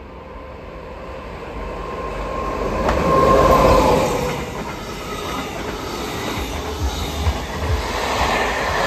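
Electric-locomotive-hauled passenger train passing through a station without stopping. A steady whine from the leading locomotive grows louder and drops in pitch as it passes, about three and a half seconds in. The rumble and clatter of the coaches' wheels on the rails follows, and a second falling whine comes near the end as the rear locomotive goes by.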